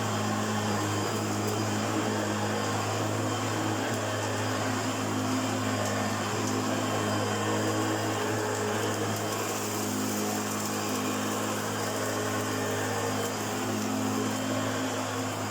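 1991 Hoover Junior U1412 upright vacuum cleaner running steadily: a constant motor hum with an even rush of air.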